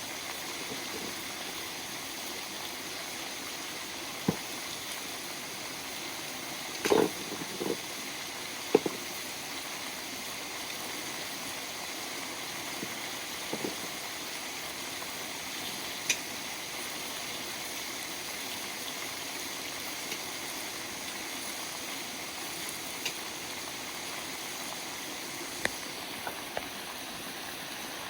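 River water flowing steadily, with scattered sharp clicks and knocks over it, the loudest cluster about seven to nine seconds in.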